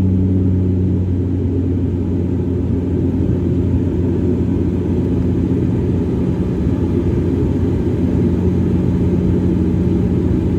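A Dash 8 twin-turboprop's engines and propellers droning steadily in a climb after takeoff: a loud, deep hum with a steady low tone.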